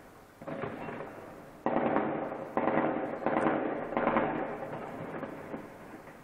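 Gunfire and blasts from heavy street fighting at a distance. About five sudden loud reports come in the first four seconds, each trailing into a long rolling echo between buildings.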